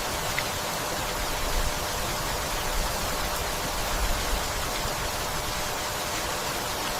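Steady rainfall, an even hiss of rain with no let-up.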